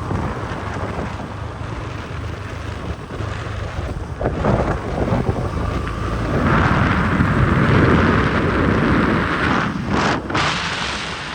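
Wind buffeting the microphone over the steady rumble of a moving vehicle, getting louder about six seconds in and easing off near the end.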